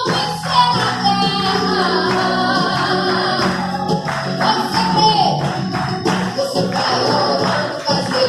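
Live gospel worship song: a woman singing over band accompaniment with percussion.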